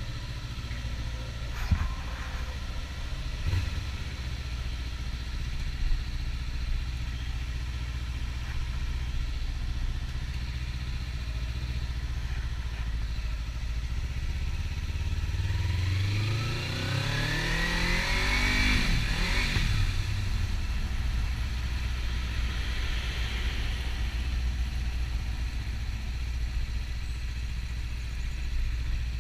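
Kawasaki Ninja 300 parallel-twin engine running steadily at low revs, then revving up with a sharply rising pitch about halfway through as the bike accelerates, before dropping back to a steady hum.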